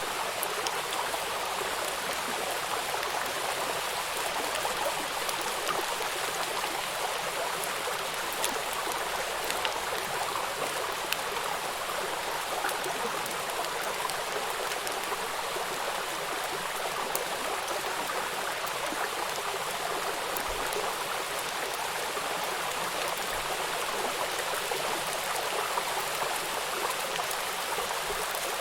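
River water rushing over rocks at a small waterfall: a steady rushing noise with faint scattered splashes and drips.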